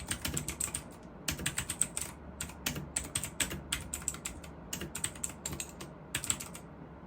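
Typing on a Leaven K620 budget mechanical keyboard: quick runs of keystroke clicks and clacks with short pauses, stopping about six and a half seconds in.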